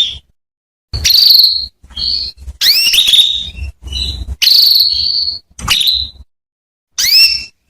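Female domestic canary calling: about seven short, high, upward-sweeping chirps, one after another with brief silences between them. It is the kind of female call used to prompt a male canary to sing.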